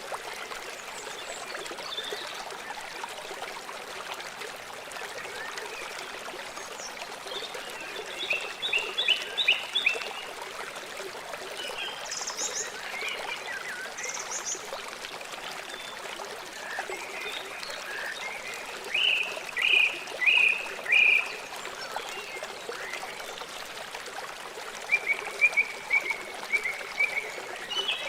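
River water flowing and trickling steadily, with birds calling over it in short bursts of quick repeated chirps, loudest a little past a third of the way in and again near the end.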